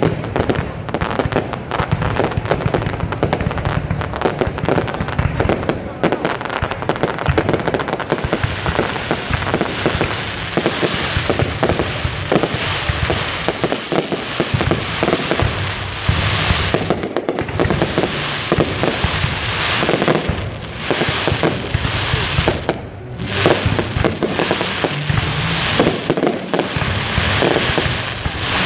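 Fireworks finale: a dense, continuous barrage of bangs and crackling with no let-up.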